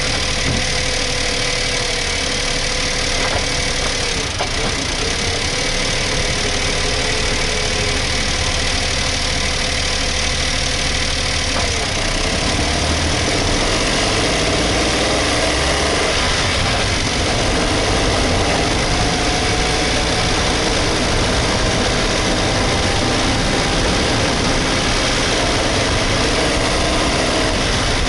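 Suzuki Hustler's 660 cc three-cylinder engine running steadily. About twelve seconds in, it picks up slightly and its pitch lines shift a little higher.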